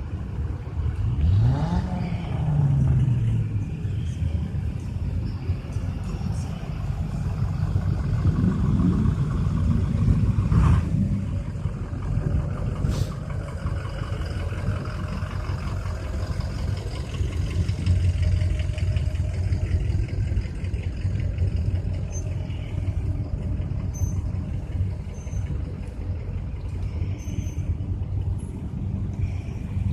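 Truck engine running steadily, revving up about a second in and swelling again a few seconds later.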